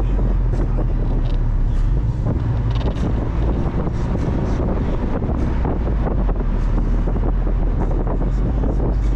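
Mazda Miata on the move: steady engine, road and wind noise, with wind buffeting the microphone.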